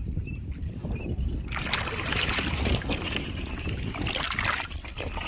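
Water splashing and rustling around a small boat in the marsh, over a steady low wind rumble on the microphone. The splashing and rustling start about a second and a half in.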